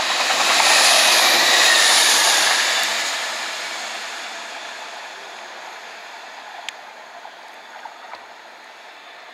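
Chiltern Railways diesel multiple unit passing at speed: a loud rush of wheel and engine noise that peaks about a second or two in, then fades steadily as the train draws away.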